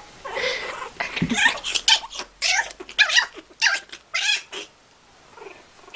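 Cat yowling in a series of short, wavering cries while scuffling with a dog; the cries stop about four and a half seconds in.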